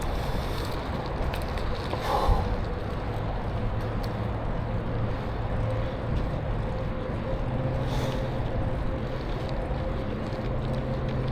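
Steady rush of wind and tyre noise from a bicycle being ridden, with a low hum throughout and a thin steady whine coming in about halfway.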